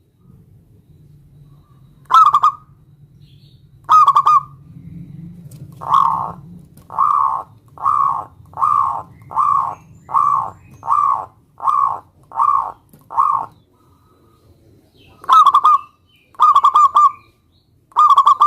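Zebra dove (perkutut) cooing: two single coos, then a run of about a dozen coos at roughly one and a half a second, then three more coos near the end. A faint low hum sits under the first half.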